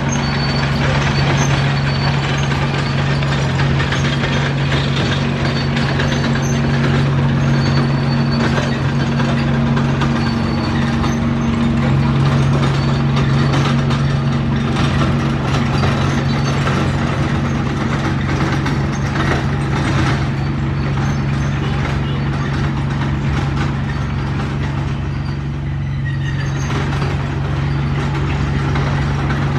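Heavy diesel engine of a crawler bulldozer running steadily under load, a continuous low engine drone with a noisy mechanical clatter above it.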